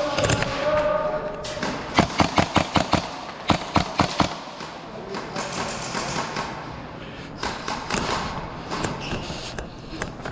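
Airsoft gun firing a quick string of about six shots, about five a second, then three more after a short pause.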